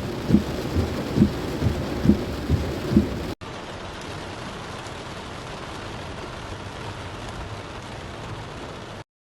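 Heavy rain falling, with a regular low thump a little more than once a second for the first few seconds. It then cuts to a quieter, steady rain hiss that stops abruptly near the end.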